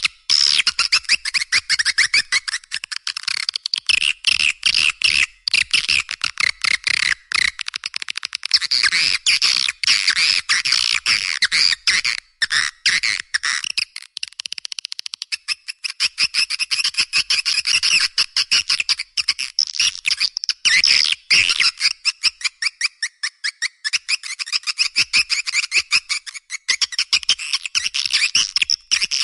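Swiftlet calling track: a dense, continuous stream of rapid twittering chirps and clicks from swiftlets, many per second, high-pitched with hardly any low sound. This kind of recording is played to lure swiftlets to nest in a swiftlet house.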